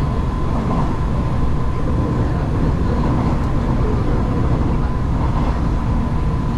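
Hanshin Main Line commuter train running between stations, heard from inside the passenger car: a steady low rumble of wheels on rails, with a faint steady whine above it.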